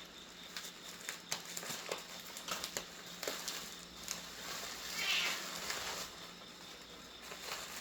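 Rustling and light tapping of shipping packaging and tape being handled, with a louder scratchy, hissy burst about five seconds in.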